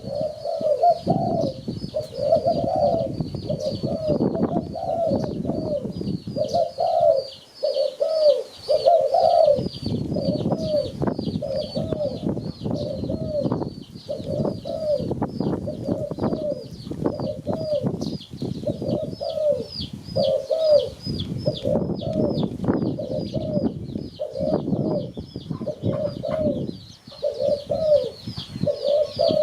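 Spotted dove cooing over and over in short repeated phrases, with a thin high chirp repeating about twice a second behind it.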